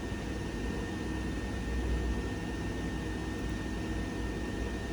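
Common rail injector test bench running a test on a Denso injector: a steady hiss with a low hum and a faint high whine, which cuts off at the very end.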